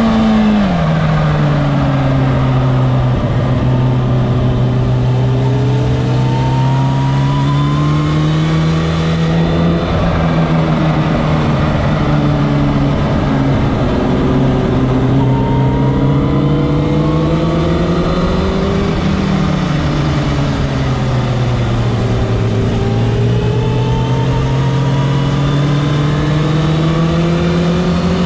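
Sport motorcycle engine under hard track riding, heard onboard: the engine note falls sharply right at the start, then climbs slowly, dips about ten seconds in, climbs again, falls around twenty seconds in, and rises once more.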